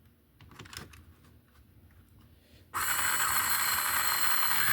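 Carrera BMW M1 Procar slot car's small electric motor and gears starting up suddenly about two-thirds of the way in and running at a steady high-pitched whir. Before it, faint light clicks and scrapes.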